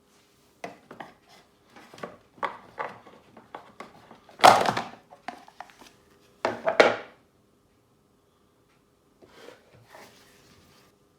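Hard plastic parts of a Dyson DC19 vacuum cleaner being handled to take off a rear wheel: a quick run of clicks and knocks, with two louder clattering scrapes about four and a half and six and a half seconds in, then a few faint clicks near the end.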